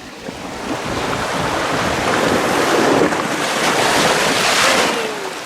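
Rushing water of a waterfall-fed natural water slide, a loud rush that builds over a few seconds and eases off near the end.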